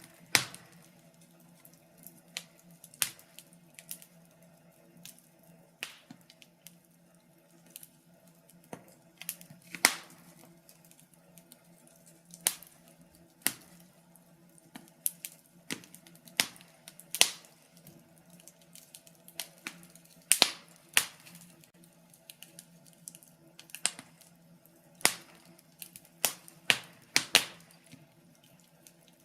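Wood fire crackling: irregular sharp pops and snaps, a few every second, over a faint low steady hum.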